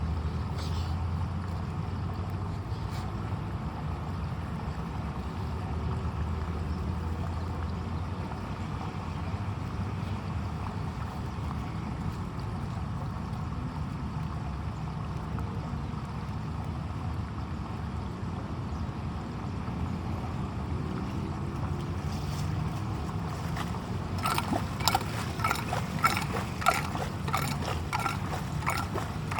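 Steady rush of rain and floodwater running into a clogged street drain. Near the end come a quick series of sharp clicks and knocks, several a second.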